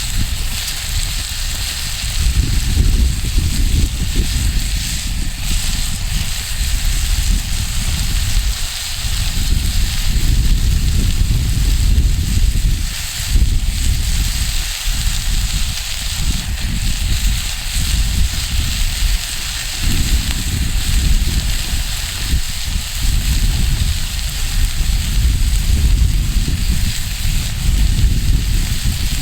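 Wood fire crackling in a fire stand, with gusting wind rumbling on the microphone.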